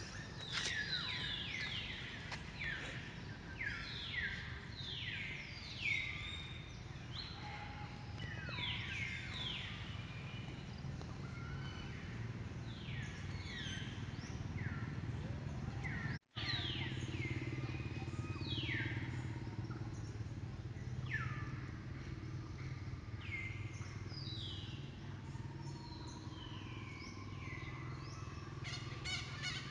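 Birds calling over and over, each call a quick note falling in pitch, over a steady low hum. The sound cuts out for a split second about halfway through, and a quick run of clicks comes near the end.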